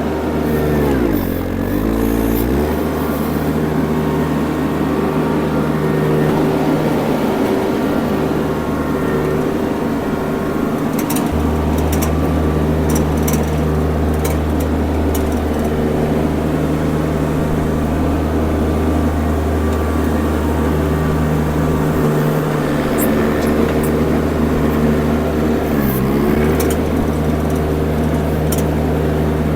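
Mini skid steer's engine running steadily at working speed; its note sags sharply twice, about a second in and again near the end, as the engine is loaded down, then recovers. Scattered sharp clicks and clanks ride over it.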